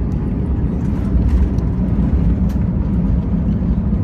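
Airbus A320 cabin noise: a steady, loud, low rumble of the engines and airflow, with a few light rattles.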